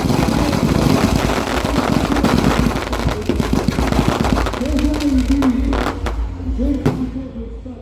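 Fireworks going off in a dense barrage of crackles and pops that thins out about four or five seconds in. A voice then comes through near the end.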